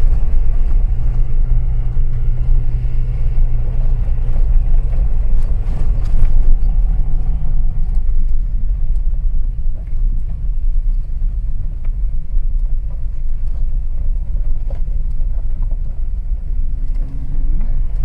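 A car driving slowly on a rough dirt track: a low, steady rumble of tyres and body, with an engine drone that eases off about eight seconds in.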